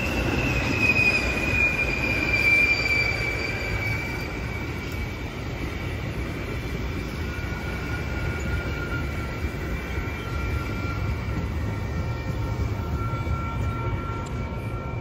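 A train rolling by with a steady low rumble and its steel wheels squealing against the rails: a strong high-pitched squeal that slides a little lower over the first few seconds, then a fainter, lower squeal from about halfway through.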